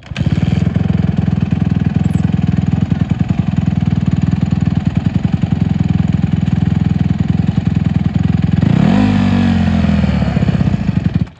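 Honda CRF150R dirt bike's single-cylinder four-stroke engine running steadily up close, revved once about nine seconds in with the pitch rising and falling back, then stopping abruptly near the end.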